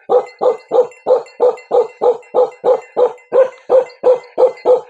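Bakarwal dog barking in a steady, even rhythm, about three barks a second.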